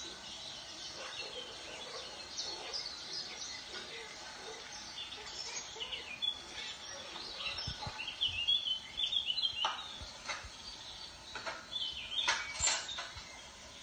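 Birds chirping and calling over a faint background hiss, growing busier and louder in the second half.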